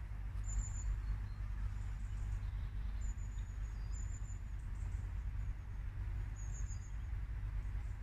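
Four short, very high, thin chirps of a small bird, spread unevenly, over a low steady rumble.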